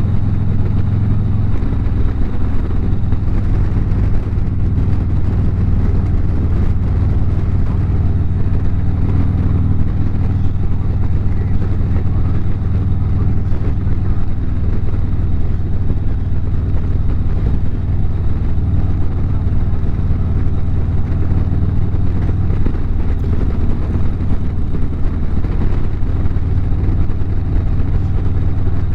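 Harley-Davidson V-twin engine running at a steady cruising speed, with road and wind noise, the level holding even throughout.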